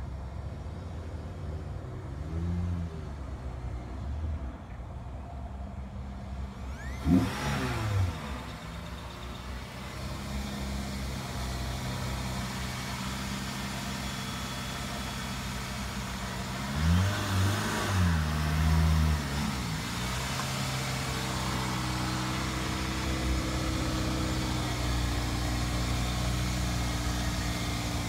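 Toyota Celica GTS's 2ZZ-GE four-cylinder engine, with a short hard rev about a quarter of the way in and three quick throttle blips a little past halfway, then settling into a steady idle.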